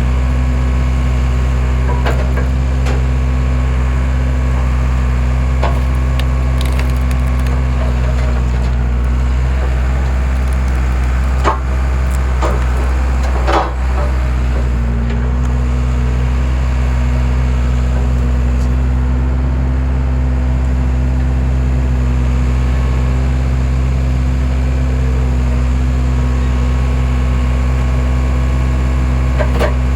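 Skid steer engine running steadily under the hydraulic wood splitter, with logs cracking and splintering apart: two sharp cracks a couple of seconds apart near the middle and another near the end.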